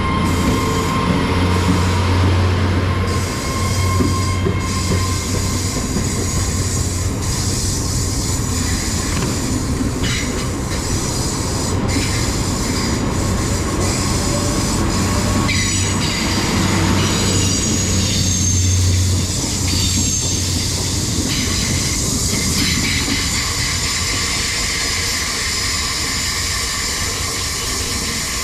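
A Class 800 bi-mode express train pulling out of the station on its underfloor diesel engines: a loud low engine drone that swells and eases, with a high whine over it partway through. The train is loud as it leaves.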